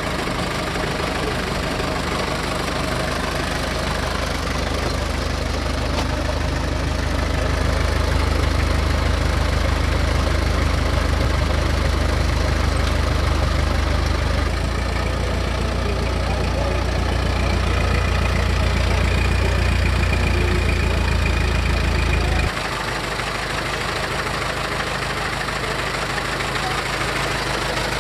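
A car engine idling steadily; its low engine sound cuts off abruptly about 22 seconds in, leaving an even background hiss.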